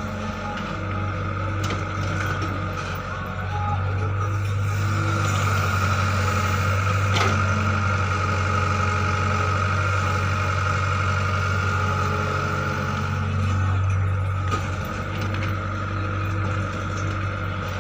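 Heavy machinery's engine running steadily with a low hum that eases and picks up again at times, with a single short click partway through.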